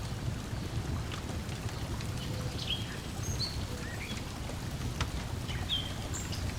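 Lakeside ambience: a steady low wash of water lapping at the shore, scattered crackles and pops of a wood fire, and short bird chirps dotted through it.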